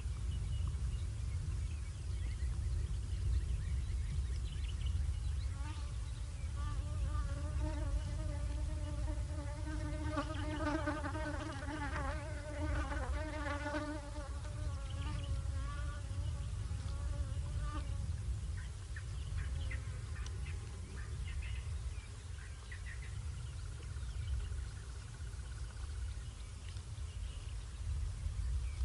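A flying insect buzzing close to the microphone, a steady-pitched drone that swells in about five seconds in and fades away after about eighteen seconds, over a constant low rumble.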